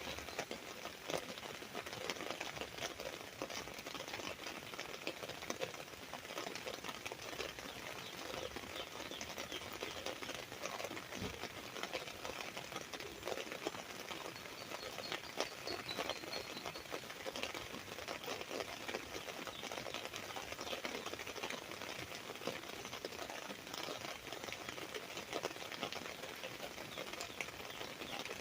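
Steady rain pattering on an umbrella canopy: a dense, even stream of small drop ticks. A faint bird chirps a few times about halfway through.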